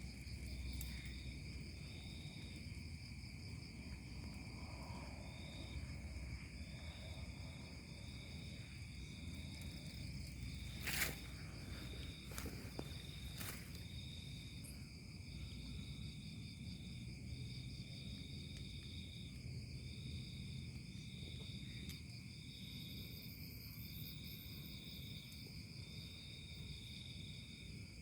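Chorus of insects, likely crickets or similar night insects: steady high trilling with a second, pulsing call repeating over it. A sharp click about eleven seconds in and a fainter one a couple of seconds later.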